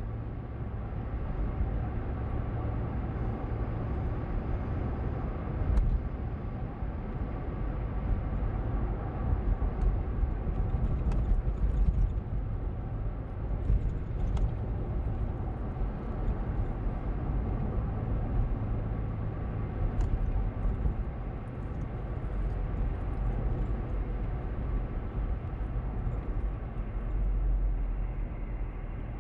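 Steady road and engine noise inside a moving car's cabin, heaviest in the low rumble, with a few faint clicks.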